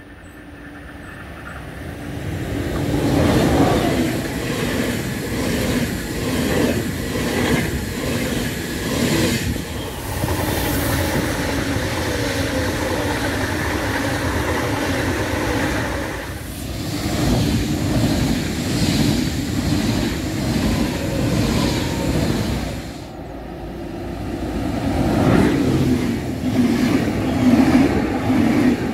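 ICE high-speed trains passing at speed. The first train's approach swells up within a few seconds into a steady rush of wheels on rails and air. Near the end the noise dips and then rises again as a second ICE passes close by.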